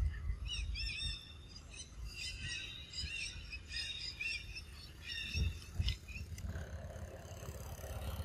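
Birds chirping in many short, quick, repeated high notes, with two dull low thumps about two-thirds of the way through.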